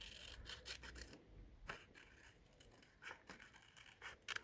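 Scissors cutting paper, a faint run of irregular snips.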